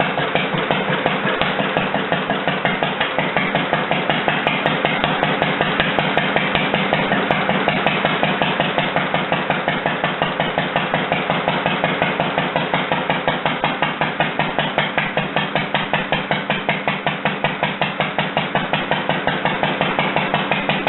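Rebuilt International Harvester LA single-cylinder stationary engine running steadily, its firing strokes making an even, regular beat.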